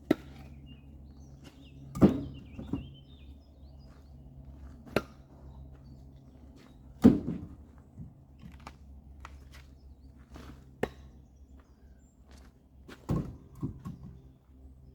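Firewood logs knocking and thudding, with three heavy deep thuds and several lighter knocks spread unevenly, over a faint steady low engine hum.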